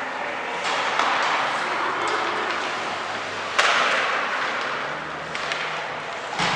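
Game noise in a large, echoing hall: a steady wash of sound broken by sharp knocks, the loudest about three and a half seconds in and a smaller one near the end.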